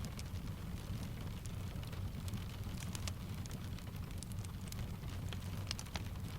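Steady rain mixed with a wood fire crackling, with scattered sharp pops and ticks over an even low rumble.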